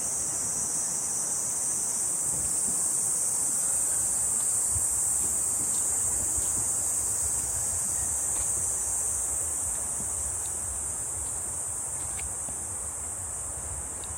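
A chorus of cicadas makes a steady, high-pitched buzz in summer woodland, easing slightly near the end. Under it is a low rumble of wind on the microphone, with a few faint ticks.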